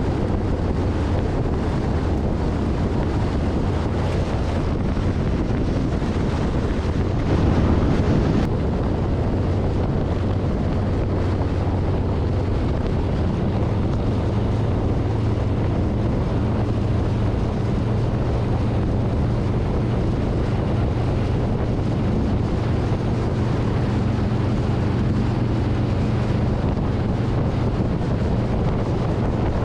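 Heavy wind buffeting a handlebar-mounted camera's microphone on a Harley-Davidson Street Bob at road speed, over the steady low drone of its V-twin engine. A louder gust comes about seven seconds in, and the engine note steps up slightly a few seconds later.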